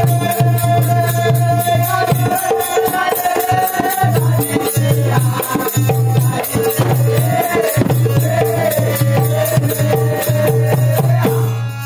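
Marathi folk ensemble music: jingling rattle-like percussion and drum strokes keep an even rhythm under a steady drone and a wandering melody line. It stops near the end.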